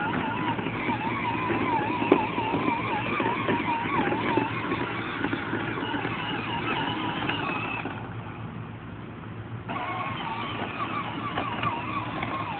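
Small ride-on tractor running as it is driven, a steady motor hum with a wavering whine over it. The sound drops back about eight seconds in and picks up again suddenly near ten seconds.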